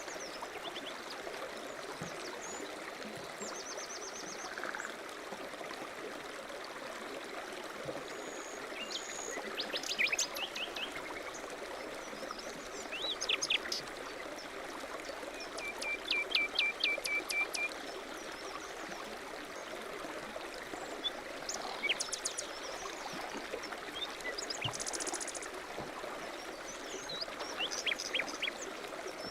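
A stream running steadily, with small birds chirping and trilling over it off and on: quick runs of short high notes, the busiest about halfway through.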